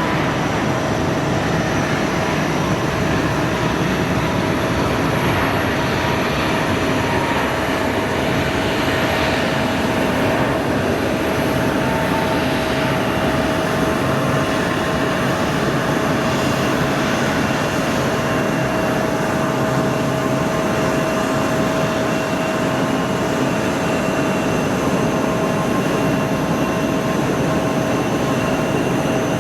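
Jet airliner engines running steadily, a loud even rush with a steady whine over it.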